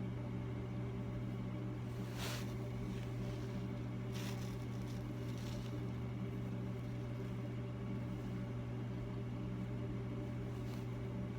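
Steady low machine hum from the workshop, with a few faint small clicks from handling a micrometer and its setting standard, about two, four and eleven seconds in.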